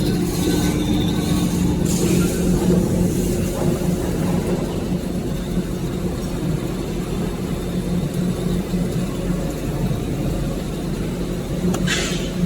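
Semi-automatic maxi-roll tissue paper band saw cutting machine running with a steady low mechanical hum, with a short hiss near the start and another just before the end.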